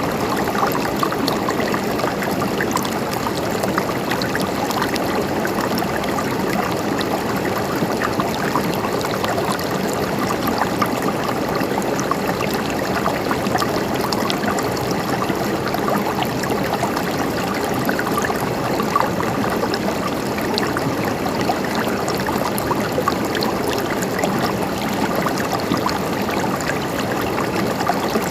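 A stream of water flowing and gurgling steadily over stones.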